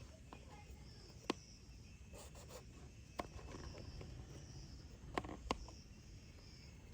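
Faint outdoor ambience: insects trilling in short spells, over a low rumble, with four scattered sharp clicks or taps, the last two close together near the end.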